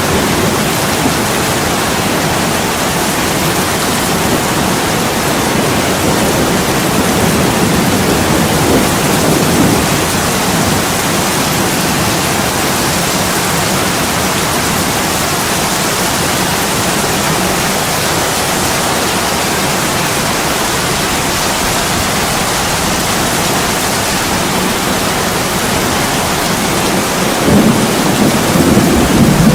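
Heavy rain pouring steadily onto an attic window, a dense even hiss, with a low rumble swelling briefly near the end.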